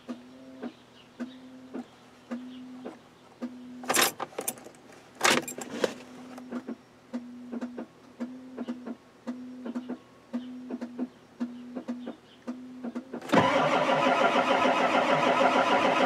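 A low warning beep repeating about once every 0.7 s, with light clicks and two loud clatters about four and five seconds in. About thirteen seconds in, the starter of the 1993 Ford F-250's 7.3L IDI diesel engages and cranks the engine hard without it catching, its glow plugs not working.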